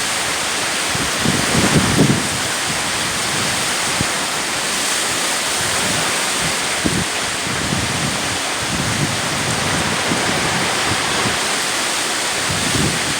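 Steady rush of hurricane wind and rain. Gusts buffet the microphone about a second and a half in and again near the end.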